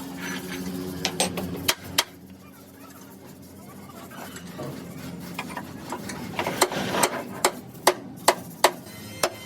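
Hammer blows on steel: a few sharp strikes early on, then a steady run of about two to three blows a second over the last few seconds.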